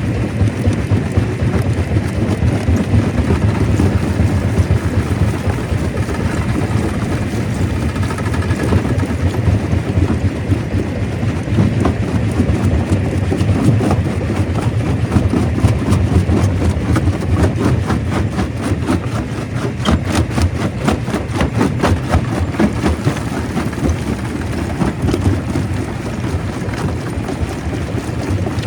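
Stone crusher running: a steady low machine drone with a dense rattle of knocks as rock is broken, thickest about halfway through.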